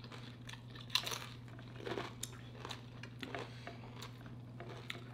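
A person biting and chewing food close to the microphone: scattered short crunches and mouth clicks, the sharpest about a second in, over a steady low hum.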